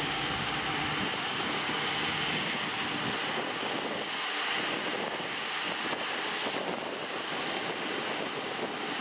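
Airliner jet engines running: a steady, even rushing noise with no changes or breaks.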